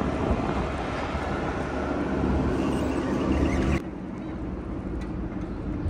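Steady rumbling noise of a vehicle in motion. It drops suddenly to a quieter, similar rumble about four seconds in.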